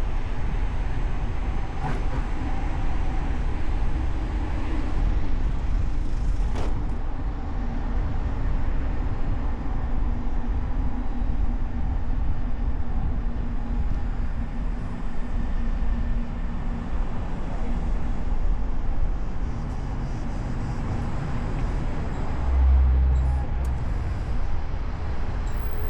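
Car driving through city traffic: steady low rumble of road and engine noise with a faint steady hum, two short sharp knocks in the first seven seconds, and a brief louder low thump near the end.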